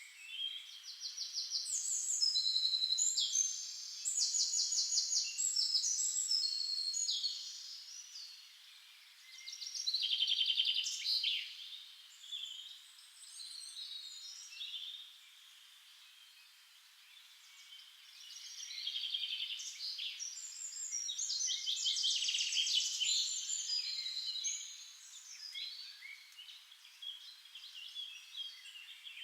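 Songbirds singing, a series of rapid trills at several different pitches, one after another. The trills come thickest in the first several seconds and again in the second half, with a quieter stretch in between.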